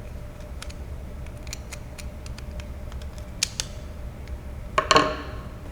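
Light metallic clicks and ticks of a steel cable being fed through a corner pulley assembly, with a louder scraping rattle about five seconds in.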